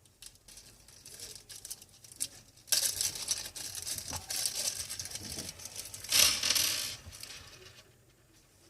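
Rustling, crinkling handling noise that starts suddenly about three seconds in and grows loudest around six seconds, after a few faint clicks.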